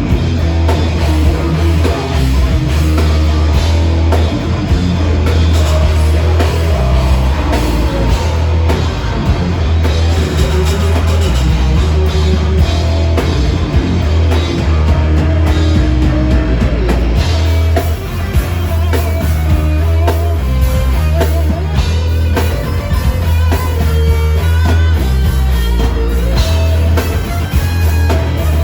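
Live metal band playing a song at full volume: electric guitars, bass and a drum kit, with a heavy, continuous low end.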